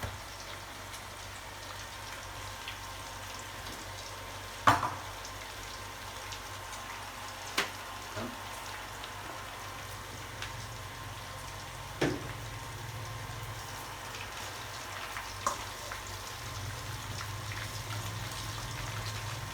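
Fish-sauce-marinated pork pieces frying in hot oil with a steady sizzle, punctuated by four sharp knocks.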